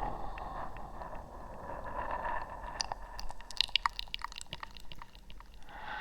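Close-miked ASMR mouth sounds: soft wet smacking, then a quick run of sharp, wet clicks about three seconds in that fades out before the end.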